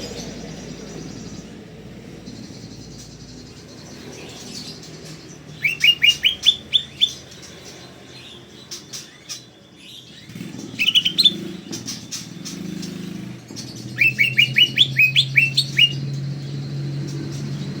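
Cucak ijo (greater green leafbird) singing in three quick runs of short, rising whistled notes: the first about six seconds in, a brief one near the middle, and a longer one a couple of seconds before the end. A low steady hum runs underneath.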